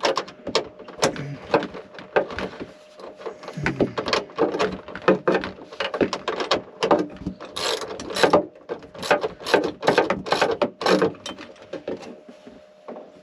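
Ratchet wrench clicking in irregular runs of strokes as a nut is tightened onto a bolt; the clicks thin out near the end as the nut comes tight.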